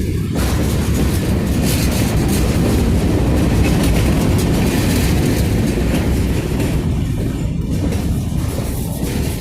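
Freight cars of a long manifest train rolling past, wheels clattering over the rails over a steady rumble, a little louder in the middle.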